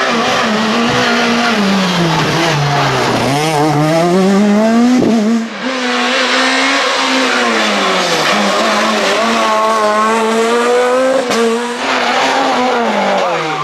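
Super 2000 rally car's two-litre four-cylinder engine driven hard at high revs, its note climbing and falling over and over through gear changes, braking and acceleration. A single sharp crack about five seconds in.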